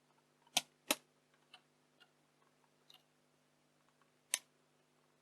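Sharp clicks and faint ticks from handling the camcorder's circuit board and parts: two hard clicks close together about half a second in, another about four seconds in, with lighter ticks between, over a faint steady hum.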